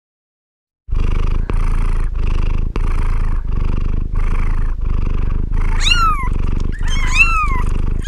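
Domestic cat purring loudly, the purr breaking in a steady rhythm about every two-thirds of a second. It starts about a second in, and near the end two short meows sound over it.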